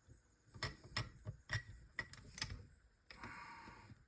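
Metal transmission parts being handled and taken off a shaft: a quick run of light clicks and knocks, then a short scrape about three seconds in.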